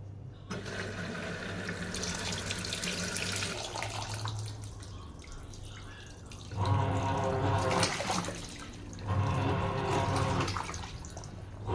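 Sharp washing machine with water running into the tub. About halfway through, a louder mechanical hum cuts in and out twice.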